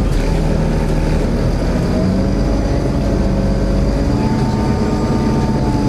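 Steady engine noise: a low rumble with several held tones. New, higher tones come in about two seconds and about four seconds in.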